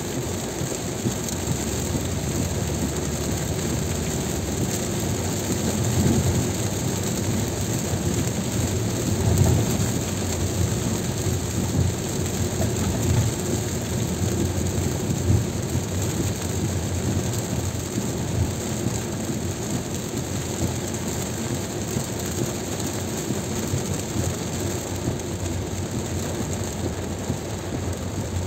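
Heavy rain on a moving car and tyres hissing on a wet highway, over a steady low road rumble, with a few louder swells.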